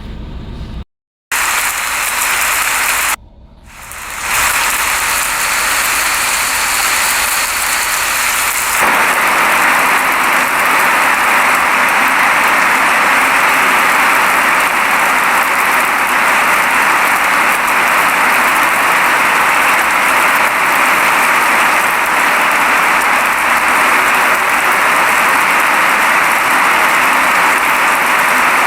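Steady rain falling, an even hiss. It cuts out briefly about a second in and dips just after three seconds, then settles into a steady, slightly louder downpour from about nine seconds.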